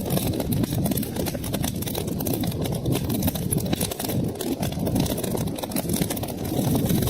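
Wood fire crackling in a fireplace: a steady low rumble of burning with many small sharp pops and snaps throughout.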